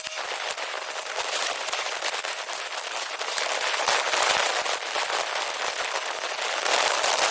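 MIG welding arc crackling as gas-shielded weld is laid into a cracked steel crossmember of a CAT 637 scraper, a dense sputter that swells around the middle and again near the end.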